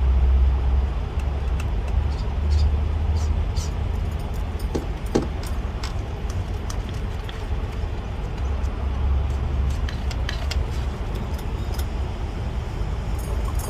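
Low rumble of a running vehicle that swells and eases, with scattered light clicks and ticks.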